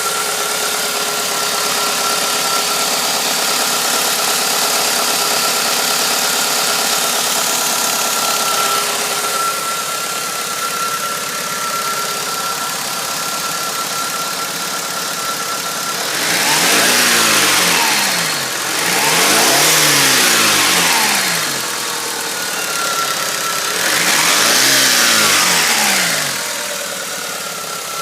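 Engine running at idle with a thin steady whine, then revved up and let back down three times in the second half.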